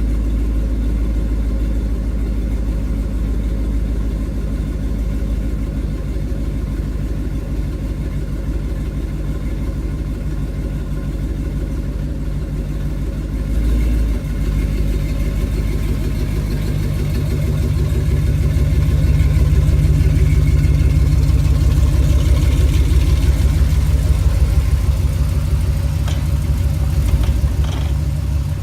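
6.0 L LQ9 V8 in a Chevy C10 idling steadily through dual exhaust while still cold. About halfway through the idle shifts and runs somewhat louder, with a deeper pulsing rumble.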